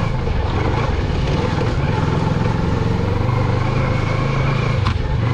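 Moto Morini X-Cape 650's parallel-twin engine running steadily while the motorcycle rides over a dirt track. A single brief knock about five seconds in.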